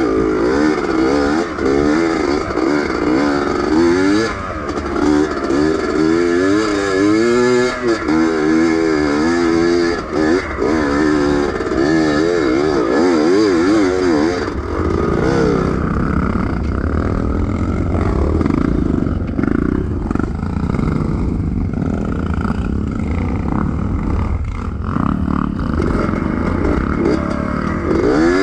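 Yamaha DT125 two-stroke single-cylinder engine revving up and down over and over, loud, its exhaust note coming through a muffler with a hole in it. About halfway through the revs steady into a rougher, more even running before swinging again near the end.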